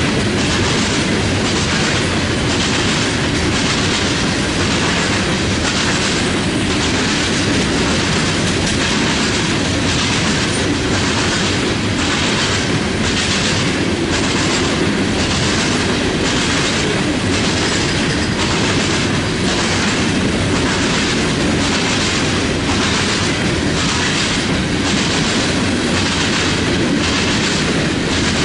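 CSX freight train's cars rolling past, steel wheels clicking over the rail joints in a steady, even rhythm over a continuous rumble.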